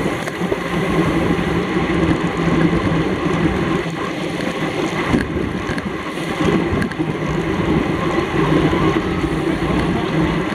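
Steady wind rushing over a camera microphone on a bicycle moving at race speed, with a faint low hum of tyres rolling on the road underneath.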